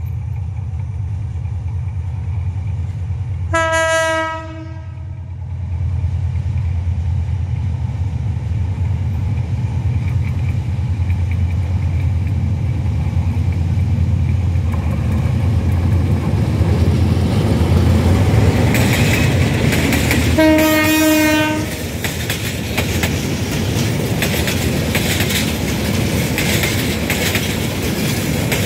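Bangladesh Railway diesel locomotive no. 2936 hauling a passenger express: a steady low rumble as it approaches, a horn blast about four seconds in and another about twenty seconds in. The locomotive and its passenger coaches then roll past on the rails, growing louder.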